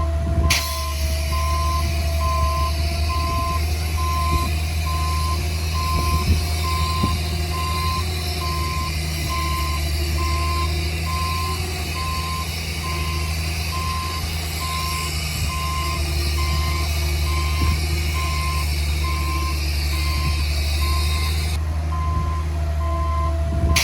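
Reversing alarm of heavy earthmoving equipment beeping steadily at about one beep a second, over the low rumble of a running diesel engine with a wavering whine.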